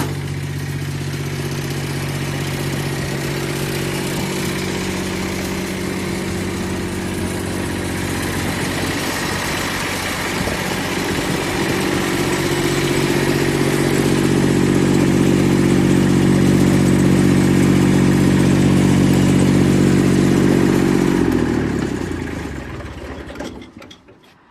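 Diesel engine of a Yanase 11-17HD snowblower running steadily, a little louder from about halfway through. About three seconds before the end it is shut off, slowing down and dying away.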